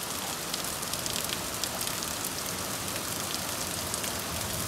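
Heavy rain pouring down in a storm: a steady hiss of rain with many small drop ticks.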